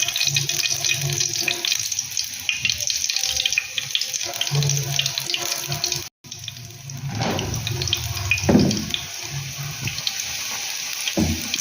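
Gram-flour-battered spinach leaves deep-frying in hot oil: a steady sizzle with fine crackling.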